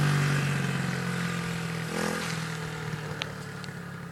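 Small dirt bike engine running at a steady pitch and growing steadily fainter.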